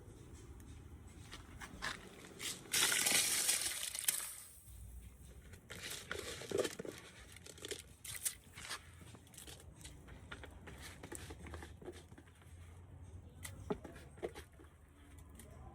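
Crinkling and rustling of something being handled, loudest for about a second and a half near the start, followed by scattered small clicks and knocks.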